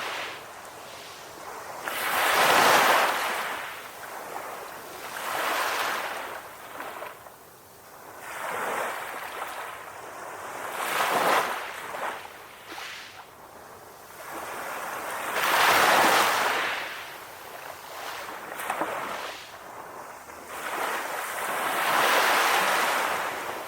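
Calm ocean waves washing onto the shore: a rush that swells and fades away every few seconds.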